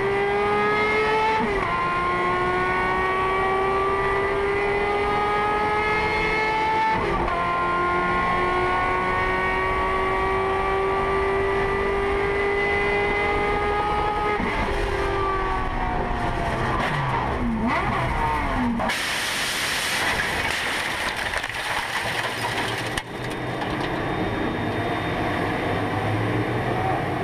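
A race car engine at high revs, its note climbing steadily through the gears with upshifts about 1.5 and 7 seconds in, then falling as it slows past halfway. A few seconds of loud rushing noise follow.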